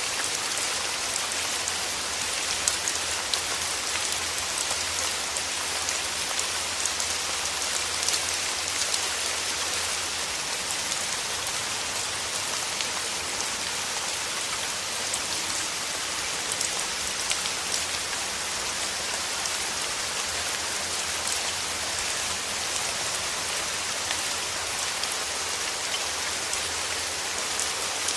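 Steady rain falling, a dense even hiss of many small drops with scattered sharper drop ticks.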